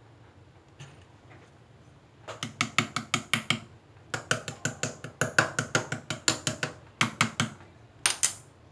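Rapid runs of sharp clicks or taps, about seven a second, in three bursts, followed by a short scraping rustle near the end.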